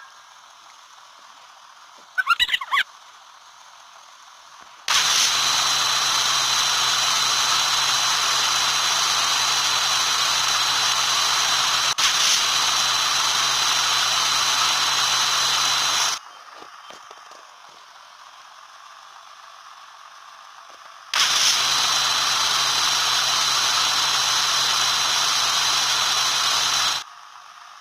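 A small electric motor runs with a loud, steady noise for about eleven seconds, stops, then runs again for about six seconds. A brief squeaky rattle comes about two seconds in.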